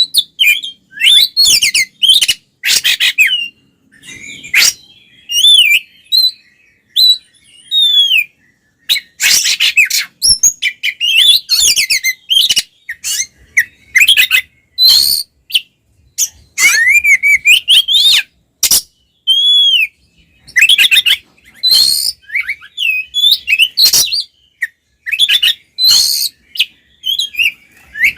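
Oriental magpie-robin (kacer) singing in loud, rapid, non-stop bursts of gliding whistles, harsh chatter and sharp clicks. This is the excited, aggressive fighting song that is played to provoke other kacer.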